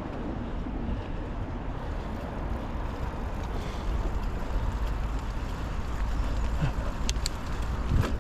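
Wind rumbling on the microphone and the rolling noise of a Norco Storm mountain bike being ridden on a trail, with a couple of sharp clicks near the end.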